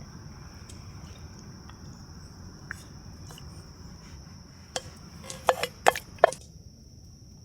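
Five or so sharp clicks and knocks, like small hard objects being handled, bunched together about two-thirds of the way through, over a steady high-pitched whine.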